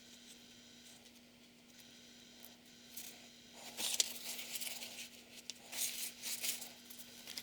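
Paper and thin card being handled: quiet for the first few seconds, then irregular rustling and scraping from about halfway in, over a faint steady hum.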